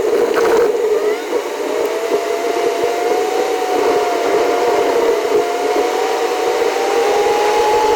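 Jeep Wrangler driving: steady engine and road noise with a whine that slowly rises in pitch.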